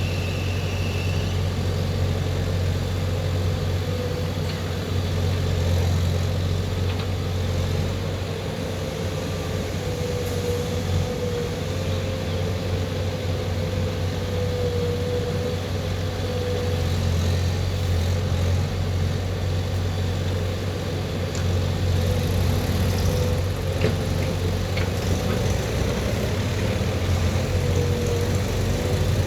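Diesel engine of a JCB 3DX backhoe loader running steadily at work, a low hum with a slightly wavering whine above it.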